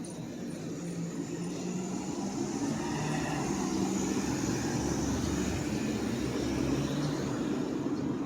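A motor vehicle passing by on the street, its engine hum and tyre noise swelling to a peak in the middle and easing slightly toward the end.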